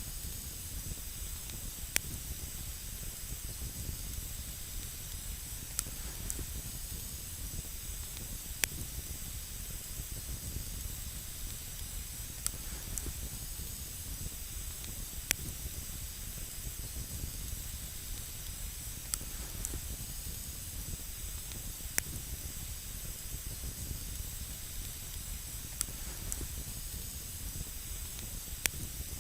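Wood campfire burning with a steady hiss and low rumble, broken by sharp crackles and pops every few seconds at irregular intervals.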